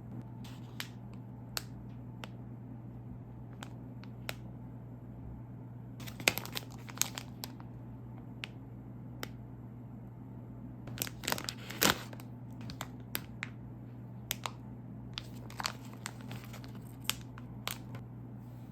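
A plastic marshmallow bag being crinkled and torn open, in scattered sharp crackles with two busier bursts of tearing, over a steady low hum.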